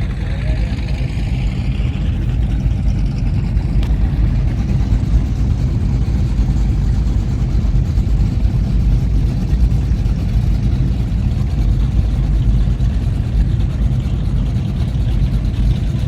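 High-performance powerboat engines running with a steady deep rumble, growing a little louder about two seconds in.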